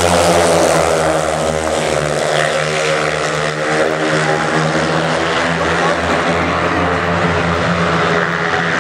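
Speedway bikes' single-cylinder 500 cc methanol engines racing at high revs, a loud steady drone whose pitch wavers as the riders go round the track.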